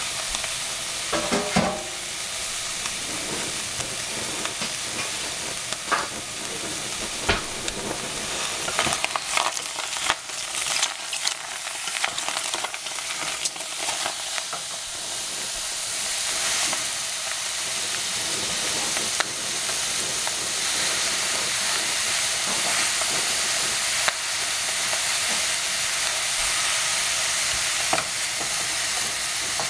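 Pieces of summer squash sizzling in a stainless steel saucepan, a steady hiss that grows a little louder about halfway through. A wooden spatula knocks and scrapes against the pan as the pieces are stirred, mostly in the first half.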